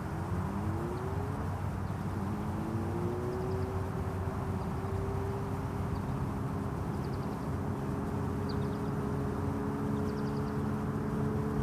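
Yamaha R6 inline-four through a Racefit Growler exhaust with no dB killer, accelerating. The engine note climbs, drops at a gear change, climbs again, then holds a steady pitch.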